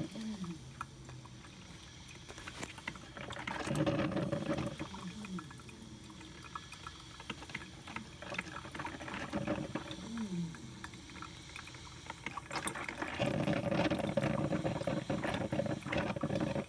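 Drip coffee maker brewing: water gurgling and spluttering through it, with short falling moan-like tones three times, the sounds that are likened to sex noises.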